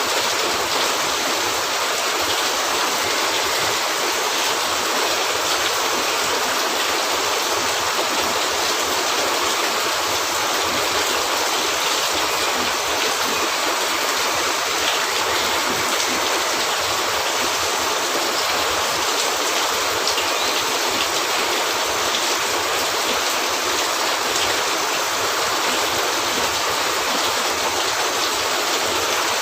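Steady heavy rain falling on a cabin roof, an even, unbroken hiss with no change in level.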